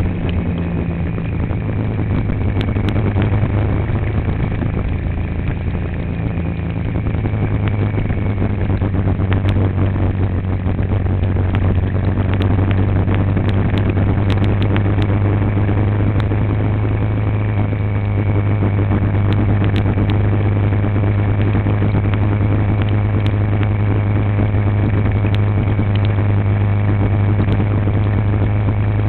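Road vehicle running while driving, a steady low engine hum under road noise, with scattered light clicks and rattles.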